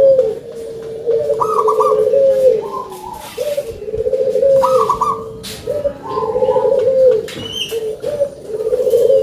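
Local perkutut (zebra dove) cooing loudly in repeated phrases, about one every two seconds. Each phrase is a short rising note, a rolling trilled coo and a held final note.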